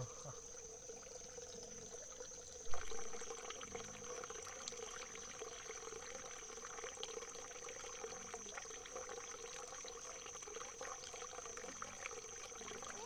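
Water trickling and splashing, with a single thump a few seconds in, after which the splashing grows busier.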